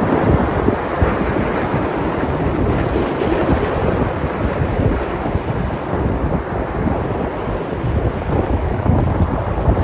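Sea surf breaking and washing on the shore, a steady rushing of waves, with wind buffeting the microphone.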